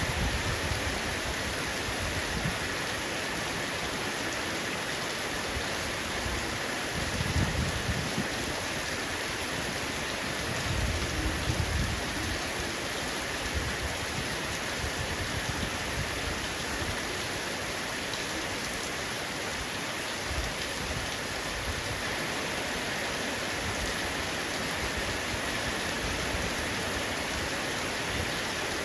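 Heavy rain falling steadily on a roof, an even hiss of drops. Low rumbles swell briefly about a quarter of the way in and again a few seconds later.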